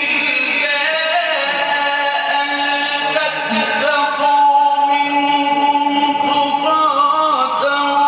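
A male Quran reciter chanting in a drawn-out, ornamented style, his voice bending through melodic turns and then holding one long steady note through the second half.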